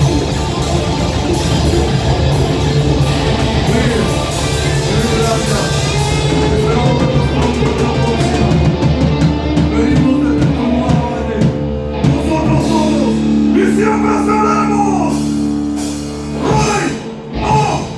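Heavy metal band playing live: electric guitars, bass and drum kit, with singing. The drums and cymbals drive hard for the first several seconds, then the band moves to long held chords, and the song breaks off near the end.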